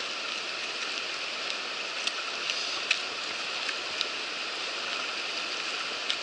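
Steady rushing of a fast-flowing river, with a few faint clicks.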